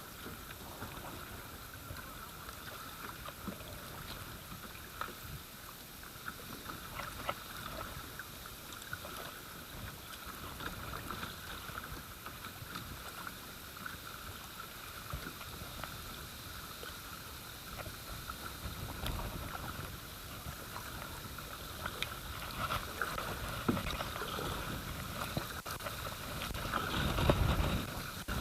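Kayak moving down a river: steady rushing water with scattered small splashes and knocks from the hull and paddle. Low rumbles come in a couple of times, louder near the end.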